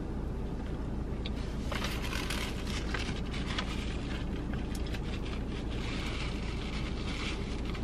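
Steady low rumble of a car cabin, with a mouth chewing a bite of fried chicken sandwich and a paper napkin rustling as small crackles between about two and five seconds in.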